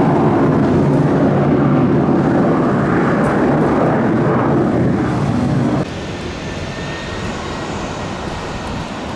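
Airplane engines running, a loud steady drone that drops abruptly to a quieter hum about six seconds in.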